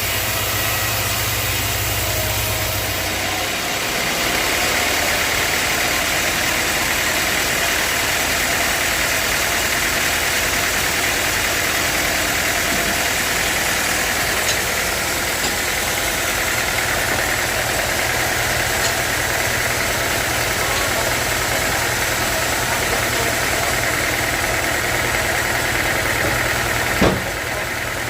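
Sawmill machinery running steadily, with a sharp knock near the end.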